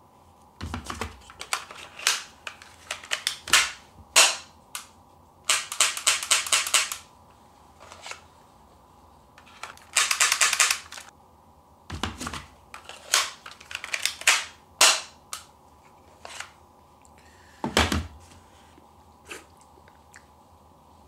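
Airsoft pistol being handled: a long string of sharp plastic-and-metal clicks from loading the magazine and working the gun, with two runs of rapid clicking and three heavier knocks.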